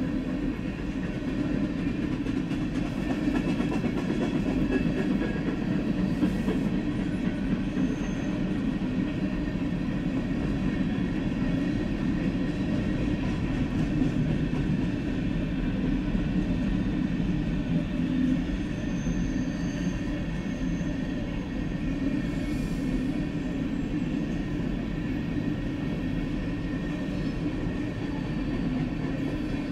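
Freight cars of a long freight train, covered hoppers and tank cars, rolling past at a grade crossing, making a steady noise of wheels on rail.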